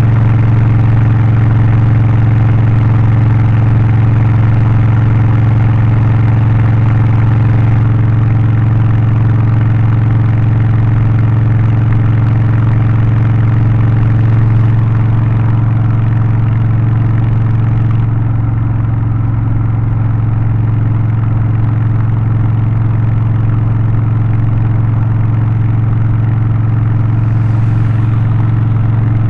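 Harley-Davidson Low Rider ST's Milwaukee-Eight 117 V-twin, in Stage 1 form with a remap, aftermarket exhaust and air filter, running loud and steady at an unchanging engine speed. The sound turns a little duller about two-thirds of the way through.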